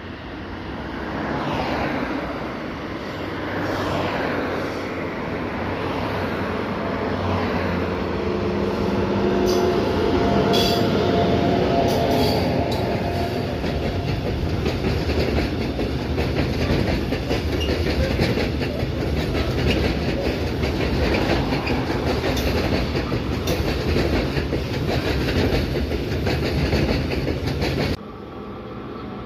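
Long freight train of tank wagons rolling past on the track: a steady rumble of wheels, with rhythmic clacking over the rail joints. The sound builds as the train arrives and cuts off suddenly near the end.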